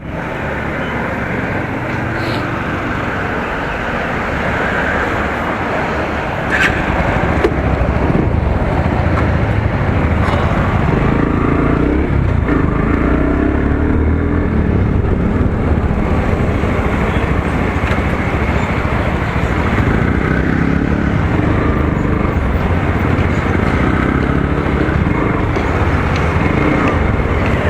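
Motorcycle running along a road, its engine note mixed with steady wind and road noise; it gets louder about six and a half seconds in.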